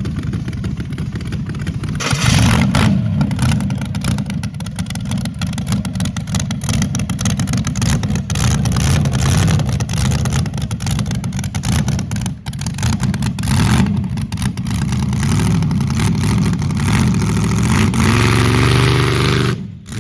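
Rear-engine super comp dragster's 600 hp 383 stroker V8 running with a loud, choppy idle and repeated throttle blips. Its pitch climbs near the end, then the engine cuts off.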